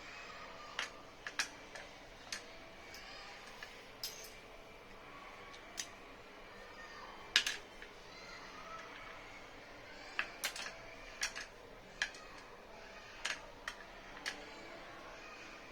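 Scattered small clicks and taps of hands working on a plastic sunglasses frame and its hinge, irregular, with one sharper tap about halfway through.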